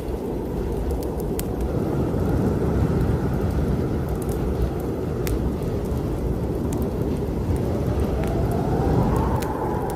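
Blizzard wind rushing steadily, with a faint whistling howl rising near the end, over scattered sharp pops and crackles from a fireplace fire.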